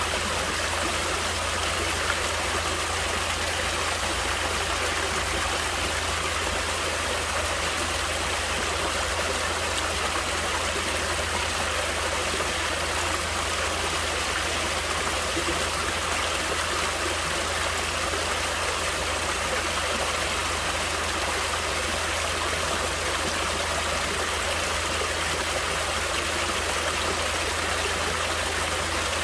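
Stream water flowing steadily, a constant even wash of sound with no breaks or changes.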